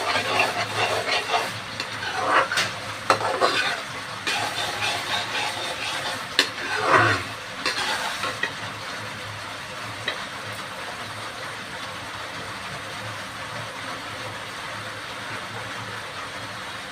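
A spatula stirring and scraping in a pan of frying food, with clicks of metal on the pan, for about the first eight seconds. Then a steady sizzle goes on without stirring.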